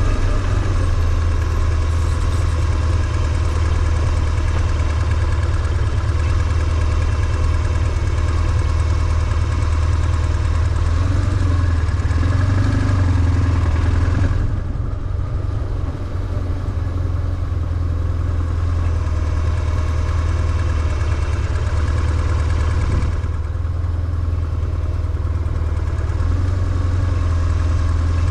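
BMW R1150GS air/oil-cooled boxer twin running at low, steady revs with a deep, even rumble. The upper sound falls away briefly about halfway through and again a few seconds later, as the throttle eases.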